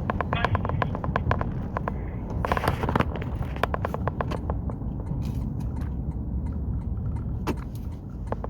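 Audio of a phone call with no one speaking: a run of crackling clicks over a steady low hum, the clicks thickest in the first few seconds.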